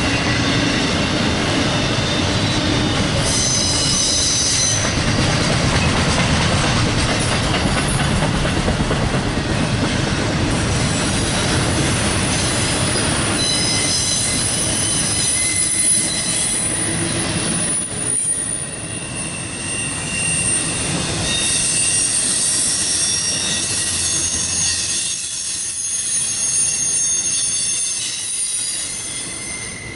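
A train rolling past, a steady rumble of wheels on rail with high thin wheel squeal coming and going.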